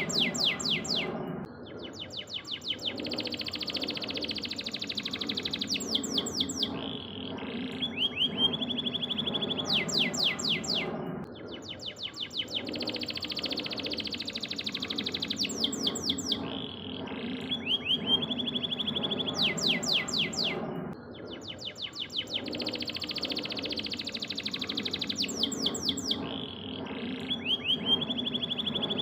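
A canary singing fast trills and rapid series of sharp chirps, with the same song passage repeating about every ten seconds as a looped training recording for songbirds. A steady low background sound runs underneath.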